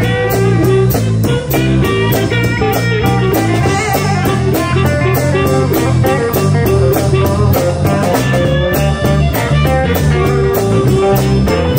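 Live blues band playing an instrumental passage: electric guitar over a steady drum beat and bass.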